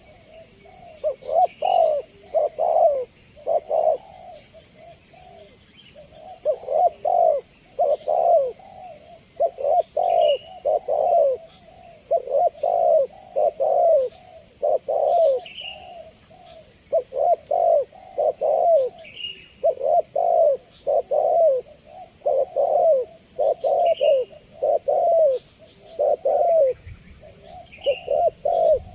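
Spotted dove (tekukur) cooing: groups of several low coo notes, repeated over and over with short pauses between groups. Faint, short, higher chirps come every few seconds over a steady high hiss.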